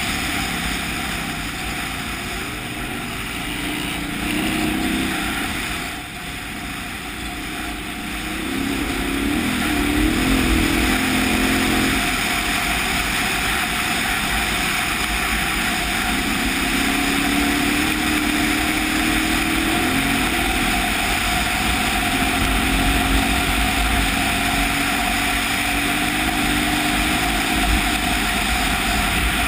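KTM 990 Adventure's V-twin engine running under way, its pitch climbing as the bike speeds up about ten seconds in and again about sixteen seconds in, mixed with heavy wind rush on the microphone.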